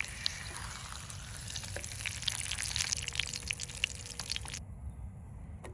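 Egg frying in a pan on a small gas stove, a steady sizzle with many small crackles. The sizzle cuts off suddenly about four and a half seconds in.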